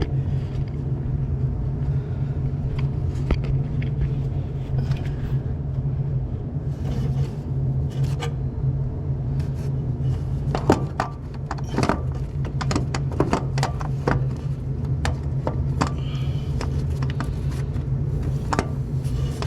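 A steady low hum runs throughout, with scattered metallic clinks and knocks from a starter motor and hand tools being worked around in a cramped truck engine bay. The knocks come thicker about halfway through.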